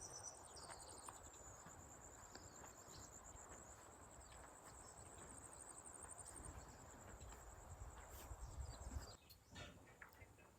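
Near silence with a faint, high-pitched insect trill of rapid even pulses that stops about nine seconds in.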